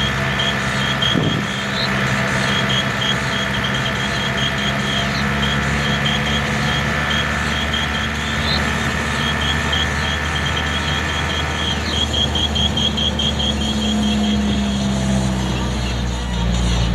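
Vehicle engine running steadily on the move, with its pitch shifting a little near the end. Over it run repeated quick trains of high-pitched chirps.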